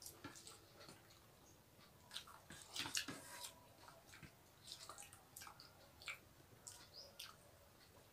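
Faint eating sounds: soft chewing and scattered mouth smacks and clicks from people eating rice and curry with their hands, loudest around three seconds in.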